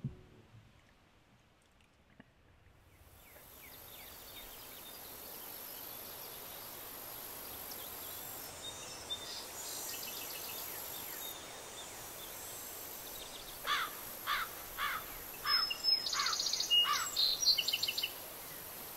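Quiet marsh ambience fades in after a near-silent start. Over the last five seconds a bird calls in a run of six or seven quick, falling notes, mixed with a few higher chirps.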